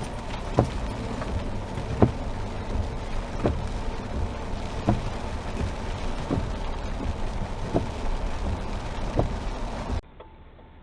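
Car driving noise heard from inside the vehicle, with a sharp click repeating about every second and a half. About ten seconds in it cuts to a much quieter recording.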